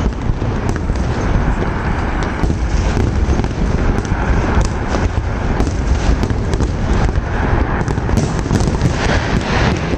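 Fireworks display going off: a continuous low rumble of bursts with many sharp crackles and pops scattered throughout.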